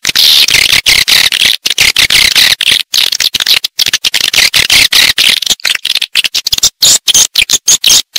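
Dense chorus of swiftlets chittering and twittering, a recorded lure call of the kind played to draw swiftlets into a house to nest. The high-pitched chatter keeps cutting out for split-second gaps.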